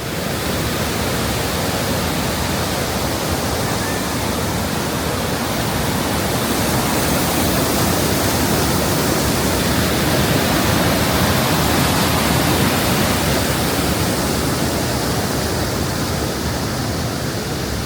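Skradinski Buk waterfall: water pouring over the travertine cascades in a loud, steady rush, easing slightly near the end.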